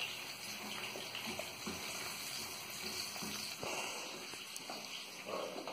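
Eggs frying in a pan over low heat: a steady sizzle with scattered small crackles.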